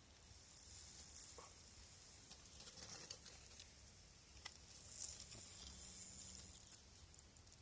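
Faint crackling of a wood fire in a fire pit: a soft hiss with scattered small pops and ticks, a few sharper ones about three and five seconds in.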